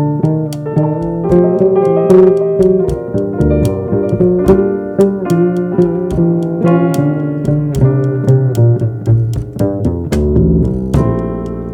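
A jazz trio playing: keyboard chords and melody over a plucked bass line, with drum and cymbal strokes.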